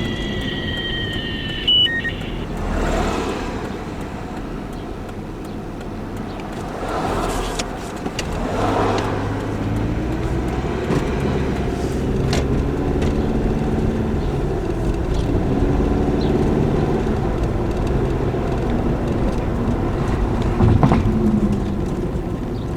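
A car running, with engine and road noise throughout; the engine note rises and drops several times.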